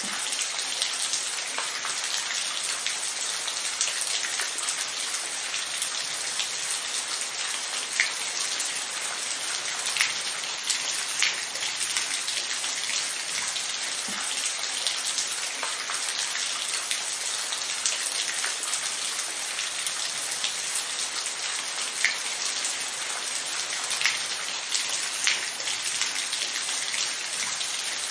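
Steady rain falling, an even hiss with scattered individual drops tapping sharply on a nearby surface.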